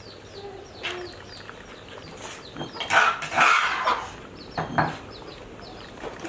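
Small birds or chicks chirping steadily in short, falling peeps, about three a second. Louder clattering and scraping, like cooking utensils on pots, comes about three seconds in, with a couple of sharp knocks shortly after.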